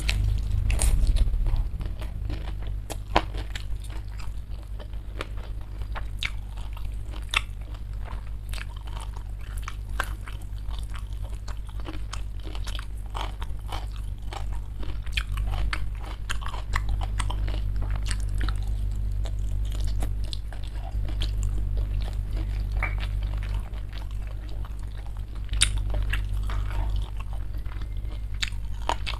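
Close-miked biting and chewing of a spicy smashed fried chicken wing (ayam geprek), dense with small crunches and a few louder crackles. A steady low hum runs underneath.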